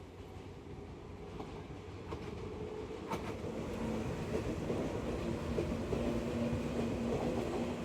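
Train running on rails, growing steadily louder, with a rumble and a steady low hum that comes in about three and a half seconds in.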